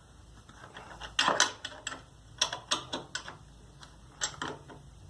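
Ratchet wrench clicking in short strokes while a bolt on a scooter exhaust is adjusted, with a brief cluster of louder metallic clicks about a second in.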